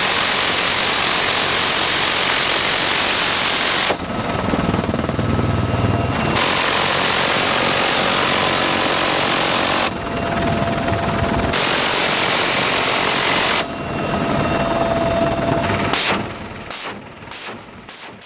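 Machine gun firing from a UH-1Y Venom helicopter gunship in three long continuous bursts, with the helicopter's engine and rotor sound in the gaps between. Near the end a few separate shots fade out.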